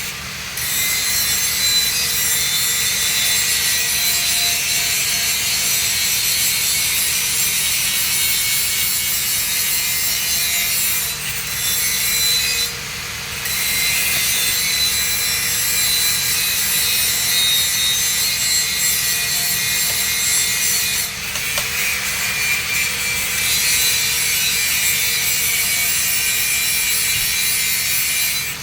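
Welding arc on steel pipe, a steady sizzling crackle with a few short breaks where the arc stops and restrikes.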